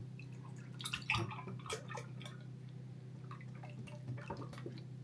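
Scattered light clicks and taps of kitchen utensils and cookware over a steady low hum.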